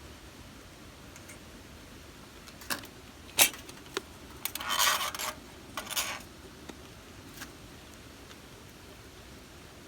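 A few sharp metallic clinks, then a short jangling rattle about halfway through and a brief one after it: metal objects being handled, over a low steady hiss.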